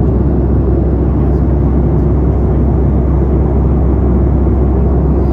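Steady cabin noise inside a Boeing 737-800 in flight: a loud, even low rumble of the CFM56 jet engines and airflow past the fuselage.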